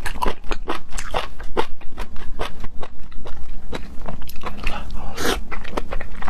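Close-miked chewing and biting of seafood: a quick run of wet mouth clicks and smacks, several a second, with a longer, louder one about five seconds in.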